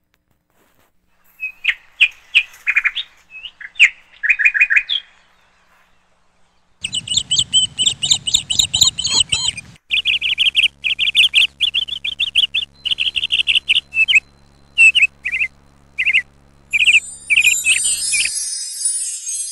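Small birds chirping in quick runs of short, high notes, in bursts with a pause between. A low steady hum sits under the middle part and cuts off abruptly, and a high tinkling like chimes begins near the end.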